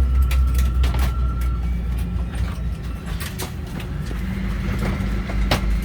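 Cabin rumble of a Boeing 777-200ER taxiing: a steady low drone with scattered clicks and rattles.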